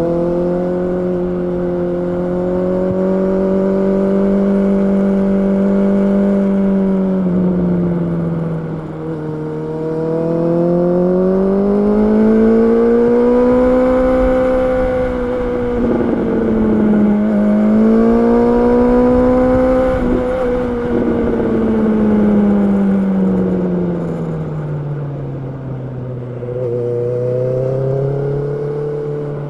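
Honda CB650R's inline-four engine running, its pitch rising and falling smoothly several times as the revs climb and drop.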